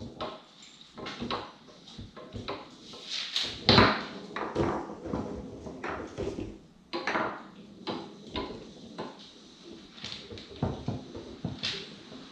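Tornado foosball table in play: irregular clacks and knocks of the ball striking the men and table walls and of the rods shifting, the loudest knock about four seconds in.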